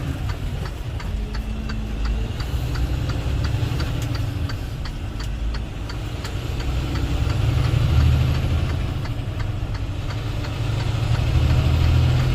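Semi truck's diesel engine running under way, heard from inside the cab: a steady low drone that swells louder about two-thirds of the way through and again near the end, with a faint, regular light ticking throughout.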